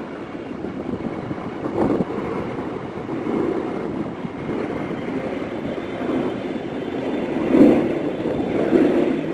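Steady rumble of passing vehicles on a city street, swelling briefly near the end.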